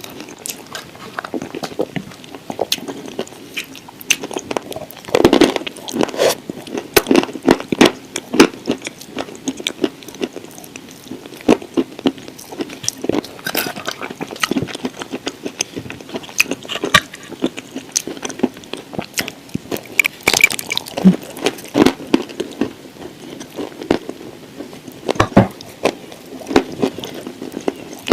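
Close-up biting and chewing of dry edible clay shaped like shortbread cookies: irregular sharp crunches and crackles, some bites louder than others.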